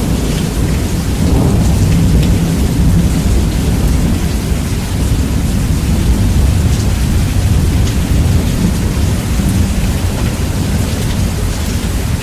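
Steady rain with rumbling thunder, heavily bass-boosted so that a loud low rumble outweighs the hiss of the rain.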